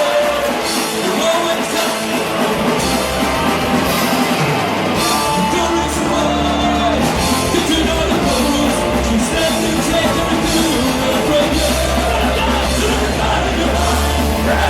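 Hardcore punk band playing live: drums, guitars and bass under a sung lead vocal, continuous and loud.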